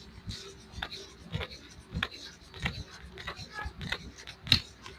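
Hands massaging an oiled foot and leg: a run of short slaps and rubbing strokes, about one or two a second, over a faint steady hum.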